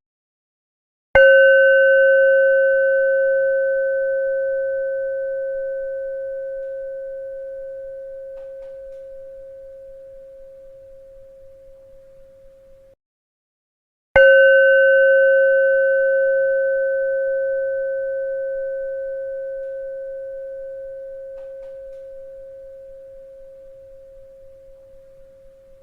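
A bell struck twice, about thirteen seconds apart. Each strike rings one clear mid-pitched tone with fainter higher overtones that fades slowly for about twelve seconds and then cuts off abruptly.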